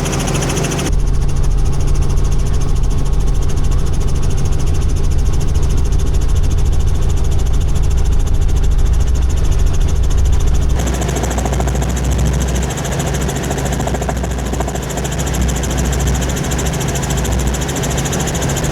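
Helicopter in flight: a loud, steady engine and rotor drone. The sound shifts abruptly about a second in and again about eleven seconds in.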